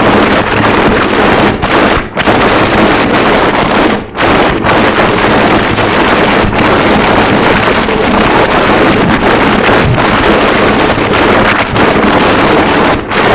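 Harsh noise wall: a loud, unbroken wall of dense static-like noise covering all pitches at once, with two brief dips about two and four seconds in.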